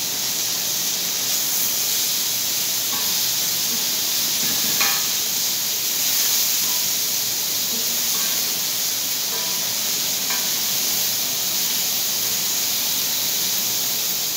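Chicken legs sizzling in oil on a steel plate over a gas burner: a steady frying hiss, with a few light clicks of metal tongs turning the pieces.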